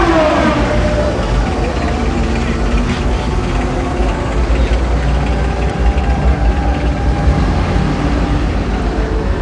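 A vehicle engine runs with a steady deep rumble, its revs falling away just at the start after a rev.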